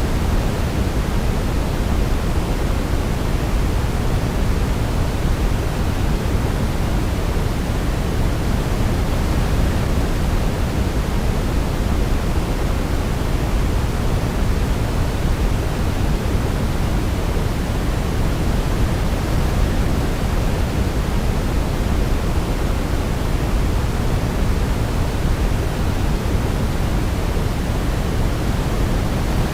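Steady, even sleep noise, deepest and strongest in the low end and fading toward the highs, like pink noise. It holds unchanged throughout, with no melody heard over it.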